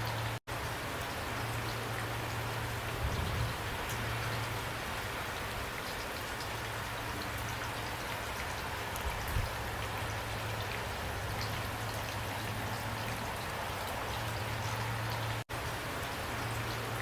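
Steady rain falling, a constant hiss with individual drops pattering through it. It cuts out for an instant twice, about half a second in and again near the end.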